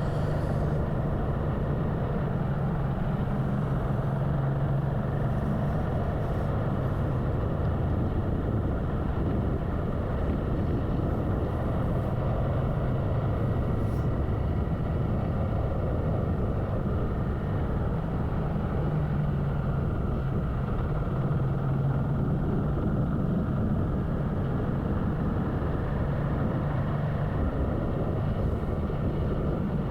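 Motorcycle engine running steadily while riding, with wind and road noise; the engine note wavers slightly now and then.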